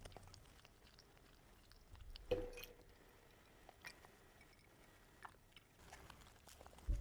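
Quiet chewing of food with small mouth clicks. There is a low knock about two seconds in, and another near the end.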